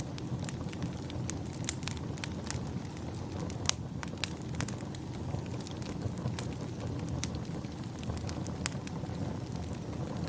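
Wood fire crackling, with frequent sharp pops and snaps over a steady low rumble; the loudest pops come about four seconds in.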